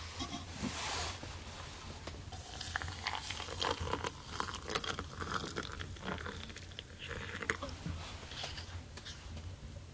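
Irregular crunching and crackling of material being handled by hand, with scattered sharp clicks throughout, over a faint low hum.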